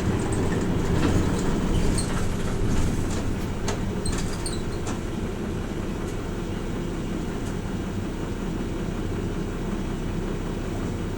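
Hino Rainbow RJ P-RJ172BA route bus heard from inside the cabin while driving, its diesel engine and drivetrain giving a steady low drone. In the first few seconds sharp clicks and rattles of cabin fittings come through, then the running settles to a slightly quieter, even drone.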